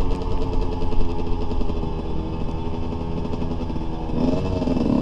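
Dirt bike engine running steadily, with a voice starting up near the end.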